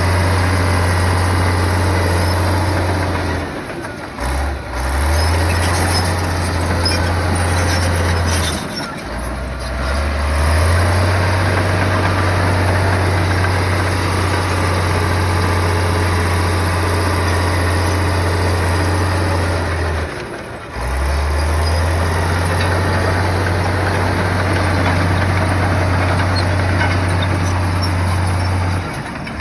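Heavy diesel earthmoving machine running under load with a steady deep engine drone. It drops out briefly about three times.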